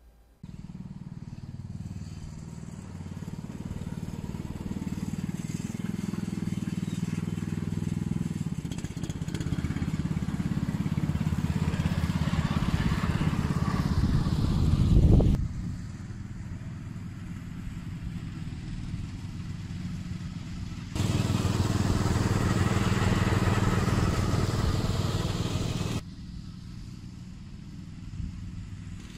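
Motorised machinery running steadily with a low hum, growing louder over the first half, then abruptly louder from about 21 seconds in and dropping back about 26 seconds in.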